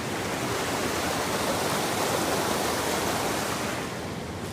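Creek water rushing, a steady noise that eases slightly near the end.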